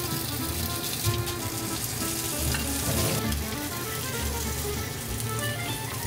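Sausage pieces and potato slices sizzling in hot oil in a nonstick frying pan, being stirred and turned with chopsticks.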